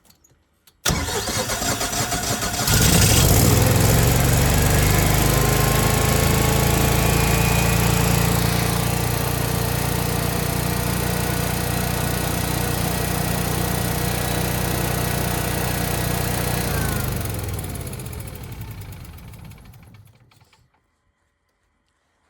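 Home standby generator engine cranking about a second in, catching and running, then shutting itself down: the engine winds down with falling pitch to a stop. It is the repeated shutdown that comes with the generator's voltage error message.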